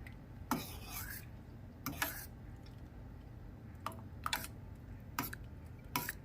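Scattered light clicks and taps of a kitchen utensil against the dishes as beaten egg is drizzled into boiling broth and stirred, over a steady low hum.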